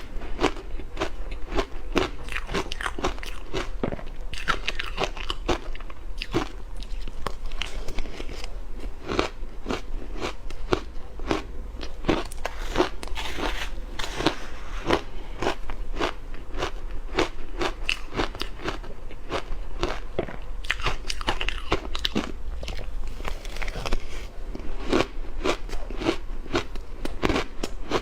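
Ice being bitten and chewed close to the microphone: dense, irregular crunching and crackling, several crunches a second with no pause.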